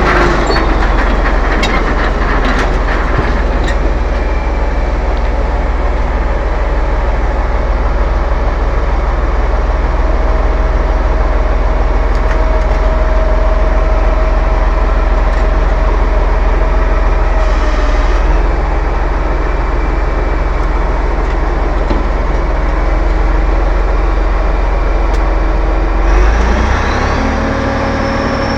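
T-11.01 crawler bulldozer's diesel engine running steadily with a heavy low rumble and mechanical clatter, its note shifting partway through and again near the end.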